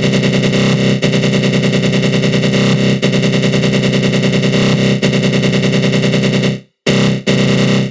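Synthesized 'attack growl' sound effect: a harsh, low buzzing synth tone made in the GMS synth with a flanger, pulsing rapidly and evenly. It cuts out for a moment near the end and then starts again.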